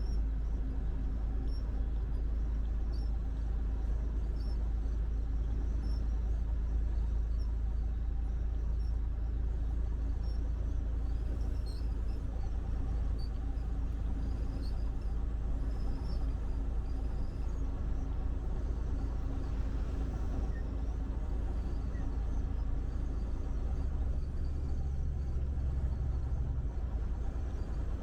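Steady low rumble of a semi truck driving on the highway, engine and road noise heard from inside the cab, with a faint steady hum and scattered light ticks. Near the end the low rumble shifts in pitch.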